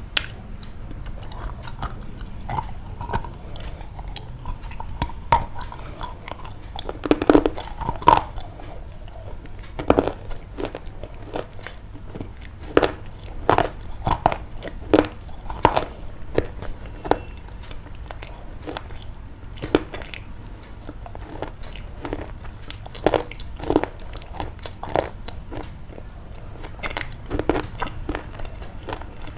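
Close crunching and crisp clicking sounds at an irregular pace, busiest in the middle stretch, over a low steady hum.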